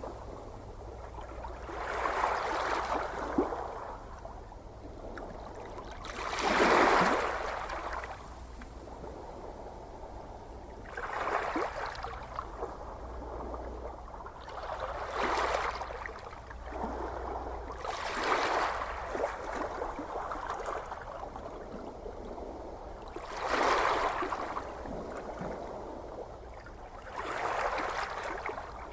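Gentle ocean waves washing in and drawing back, each wave a surge of hissing water every three to five seconds, the loudest about seven seconds in, over a steady low rumble of the sea.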